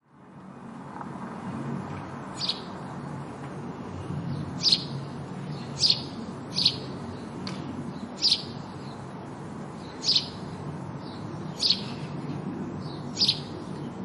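House sparrow chirping: single short chirps, one every second or two, over steady low background noise.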